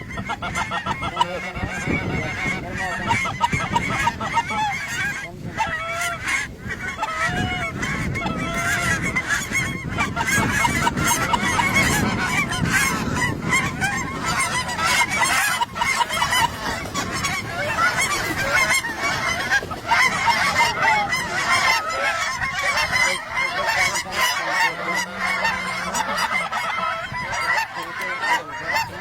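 A large flock of geese honking, a dense chorus of many overlapping calls that carries on without a break.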